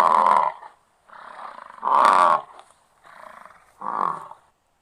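American bison bellowing: three long, loud calls, the second peaking about two seconds in and the third near the end.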